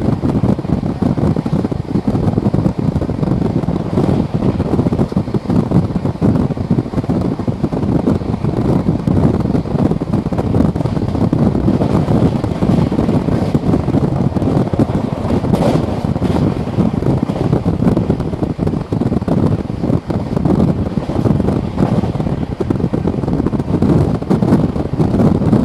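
Rush of wind at the open doorway of a passenger coach running at about 130 km/h, mixed with the steel wheels running on the rails: a loud, steady noise.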